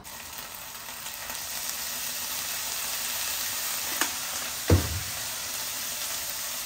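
Vegetables sizzling in hot oil in a pan, the sizzle building over the first few seconds and then holding steady. A faint click comes about four seconds in and a louder short knock just before five seconds.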